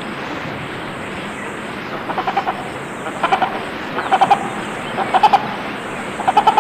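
Sumba hornbill calling: short runs of rapid "kokokok" notes, roughly one run a second, starting about two seconds in, over a steady background hiss.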